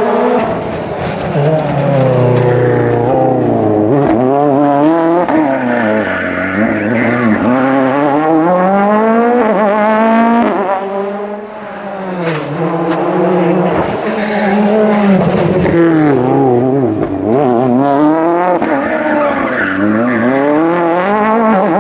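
Rally car engine on the track, revving hard and easing off again and again, its pitch rising and falling many times through gear changes and corners; it drops briefly a little past halfway, then picks up again.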